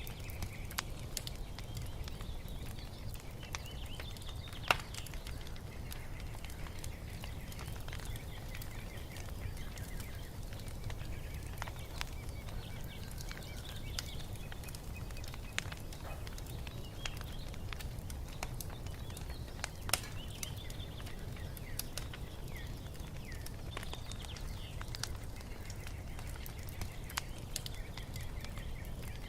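Wood fire crackling, with sharp pops scattered throughout (two stand out as louder) over a low steady rumble, while small birds chirp and twitter.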